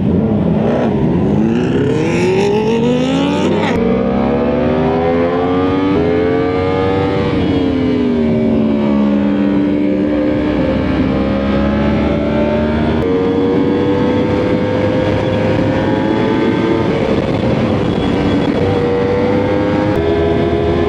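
Sport motorcycle engine accelerating hard, its pitch climbing for about four seconds, then dropping sharply at a gear change and climbing again. It then eases off and runs at a fairly steady pitch with another step change later on, over a steady rushing noise.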